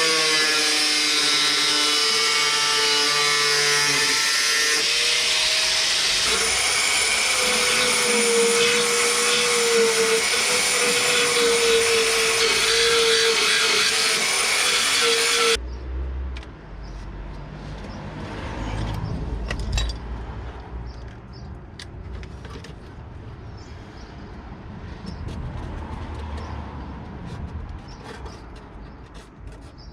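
A power tool runs steadily with a high whine, its pitch settling over the first few seconds, then cuts off abruptly about halfway through. After that come quieter scraping and tapping with scattered clicks over a low rumble.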